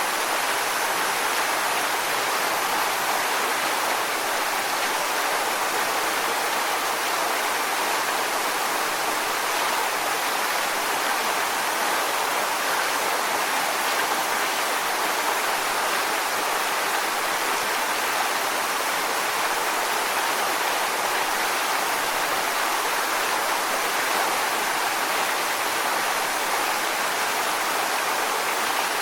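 Waterfall: a steady, even rush of falling water splashing onto rocks, with no change in level.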